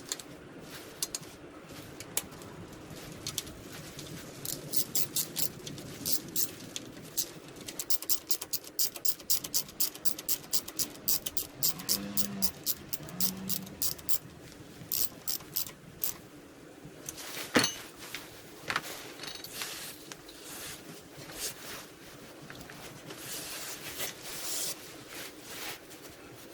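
Rapid, irregular runs of small sharp clicks and light taps, like hand tools working on engine parts, with one sharper click about two-thirds of the way through.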